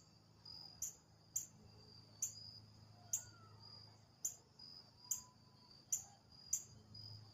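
A bird gives repeated sharp, very high chip notes, about one every half second to second, over a steady high-pitched cricket trill.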